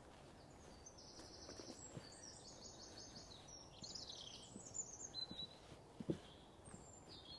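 Small songbirds singing faintly, with runs of rapid high repeated notes and trills, then a few single high notes near the end. A soft thud about six seconds in.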